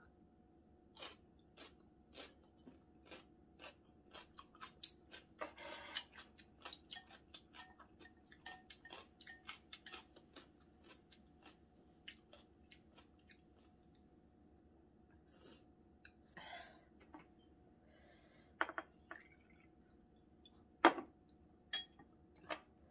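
Close-up chewing of crunchy pickled radish (danmuji), a quick run of crisp crunches, two or three a second, for about ten seconds, then quieter. Near the end come a few sharp clicks of wooden chopsticks against a ceramic bowl.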